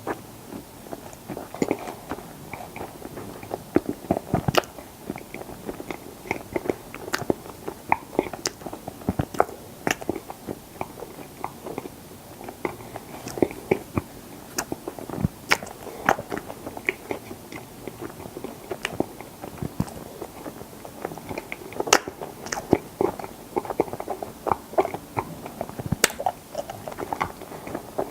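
Close-miked chewing of strawberry mochi ice cream: wet, sticky mouth smacks and sharp clicks coming irregularly several times a second.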